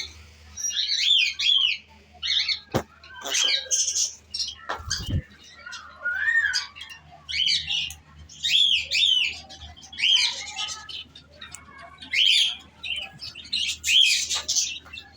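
Pet cockatiel chirping: short phrases of quick rising-and-falling whistled notes, repeated about every second, with two sharp knocks early on.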